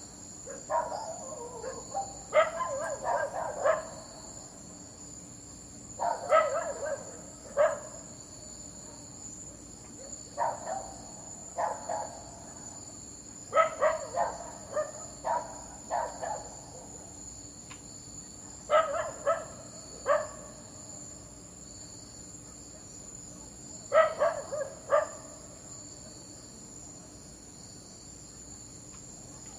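A dog barking in clusters of a few quick barks, roughly every four to five seconds, over a steady high chirring of crickets.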